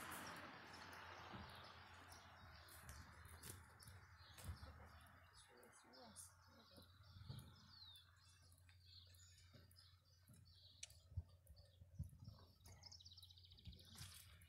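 Near silence with faint bird chirps: a short falling chirp about halfway through and a quick trill near the end, with scattered small clicks.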